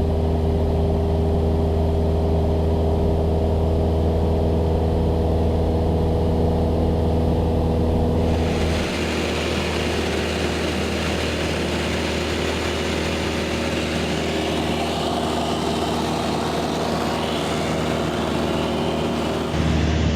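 Cessna 172S Skyhawk SP's four-cylinder piston engine and propeller running steadily in flight, a loud even drone. About nine seconds in, a steady hiss, like airflow, rises over it.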